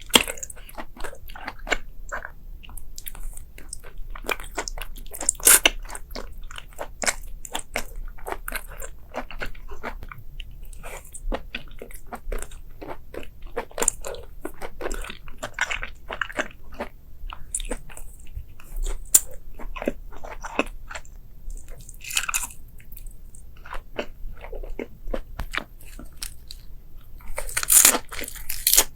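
Close-miked eating: a person biting and chewing crunchy food, with a steady run of irregular crunches and a few louder bites, one near the end.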